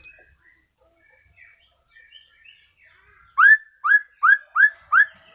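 White-rumped shama (murai batu medan) singing. A few soft chirps come first, then a run of five loud, whistled upslurred notes, about two and a half a second, near the end.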